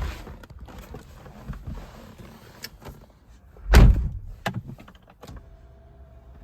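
A car door shutting with a heavy thunk about four seconds in, amid lighter clicks and knocks; a faint steady hum begins near the end.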